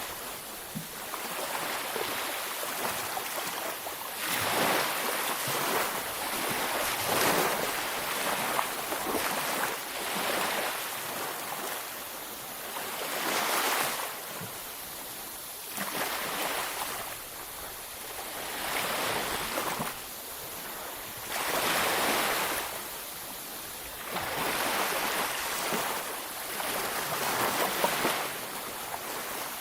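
Ocean waves breaking on a beach, each wash of surf swelling and fading every two to four seconds.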